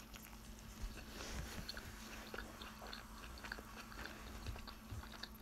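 Close-up mouth sounds of biting into and chewing a soft burrito: faint, scattered small clicks and smacks.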